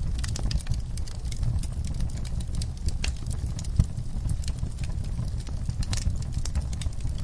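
Wood fire crackling and popping: irregular small crackles over a steady low rumble of burning logs, with one sharper pop a little past halfway.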